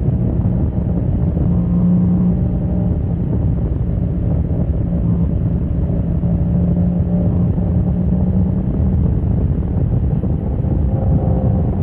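Motorcycle engine running at a fairly steady pitch, with heavy wind noise on the microphone from riding at speed.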